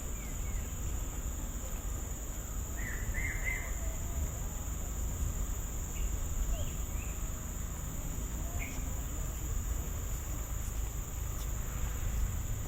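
Steady high-pitched drone of insects, with a few short bird chirps scattered through, over a low rumble.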